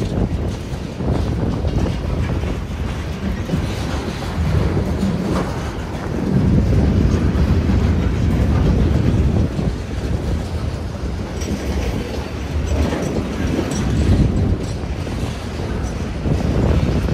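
Freight train cars (flatcars, then a boxcar) rolling past: a steady low rumble with wheels clacking over the track, swelling louder for a few seconds mid-way.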